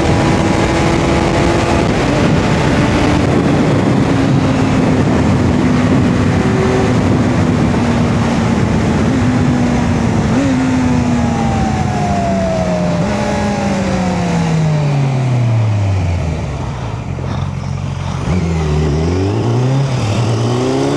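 Kawasaki Z900's inline-four engine running at high revs with wind rush. The revs sag slowly, then drop off steeply as the bike slows about two-thirds of the way in. They climb again near the end as it accelerates.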